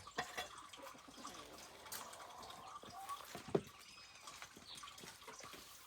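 Wet, squelchy sounds of homemade chicken feed being mixed by hand: chopped feed, rice bran and fish stirred together in a container, with small irregular sloshing clicks and one sharper slap about three and a half seconds in.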